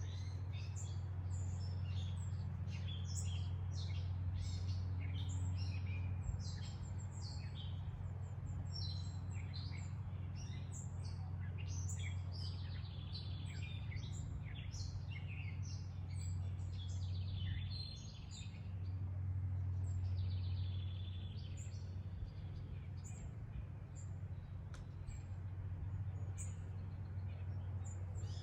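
Songbirds chirping and calling in many short, quick notes, over a steady low hum.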